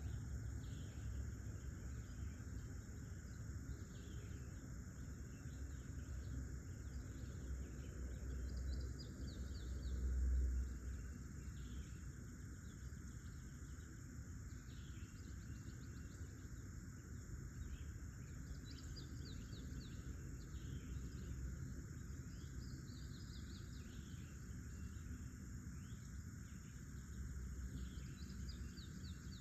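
Forest ambience: a steady high insect chorus of crickets, with short bird chirps repeating throughout. A low rumble sits underneath and swells briefly about ten seconds in.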